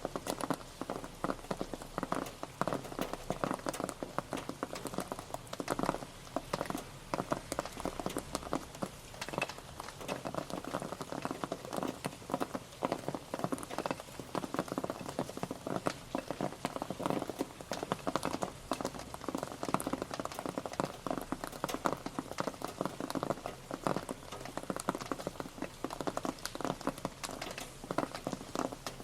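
Rain pattering, heard as a dense, uneven stream of individual drop hits at a steady level.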